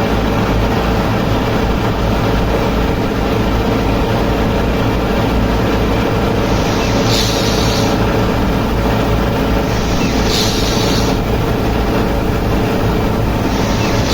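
A small threshing machine running steadily, giving a continuous mechanical drone. About every three and a half seconds there is a short hiss lasting about a second.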